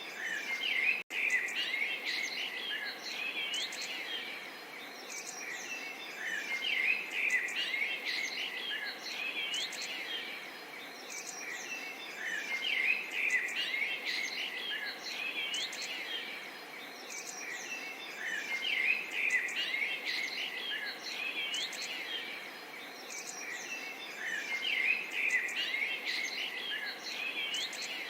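A chorus of small songbirds chirping and trilling over a steady soft murmur of running water, swelling and easing every few seconds. The sound cuts out for a moment about a second in.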